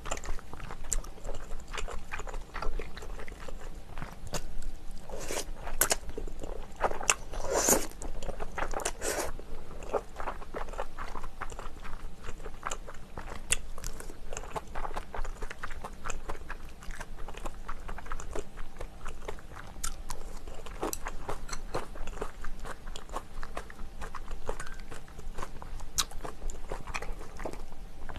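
Close-up mouth sounds of eating spicy chicken: wet chewing and biting with many crisp crunches, loudest in a cluster of bites about five to nine seconds in.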